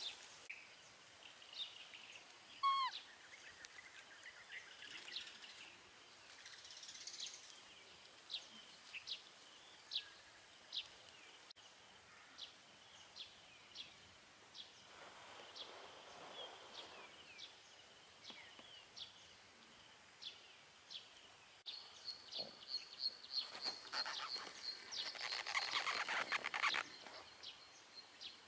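Outdoor ambience with a bird giving short high chirps over and over, about one a second. About three seconds in there is one louder, falling call. Near the end a rapid high trill runs over a rustling of grass.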